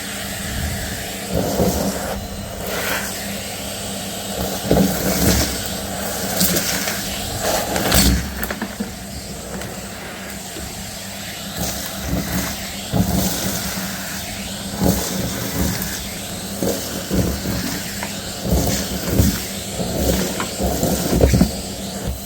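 Numatic Hetty canister vacuum cleaner running with a steady motor hum, with irregular crackles and knocks as dirt and lint are sucked up the hose and the nozzle bumps the floor.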